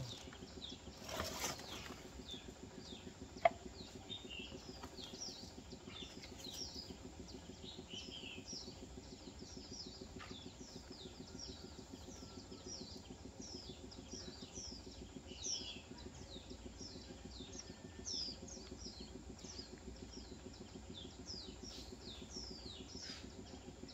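Small birds chirping, a long run of short, high, falling chirps, over a faint steady low hum. There is one sharp click about three seconds in.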